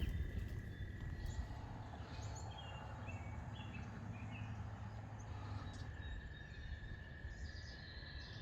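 Outdoor ambience: scattered short bird chirps over a low rumble of wind on the microphone, with a steady thin high tone running underneath.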